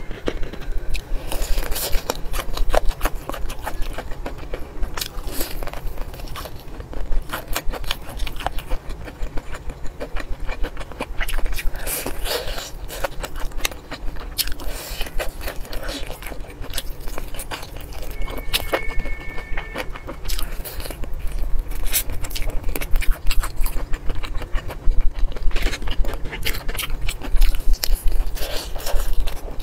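Close-miked crunching and chewing of crispy battered fried chicken: dense, irregular crackling bites through the crunchy coating.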